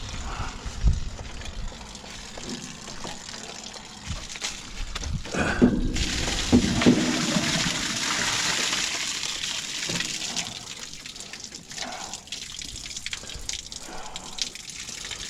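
Water gushing out of a tanker truck's opened valve once a fitting is pulled, draining the lines so nothing is left to freeze and break the fitting. A few metal clanks come as the fitting is worked loose. The rush starts suddenly about six seconds in and tapers off after about ten seconds.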